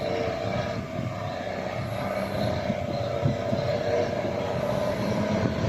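Ford 9000 tandem-axle truck running under way: a steady engine drone with constant rattling and clatter from the body and chassis.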